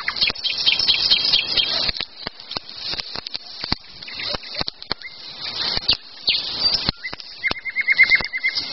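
Wild birds singing in the woods, with a fast trill of repeated notes near the end, over the crackling and snapping of a wood campfire.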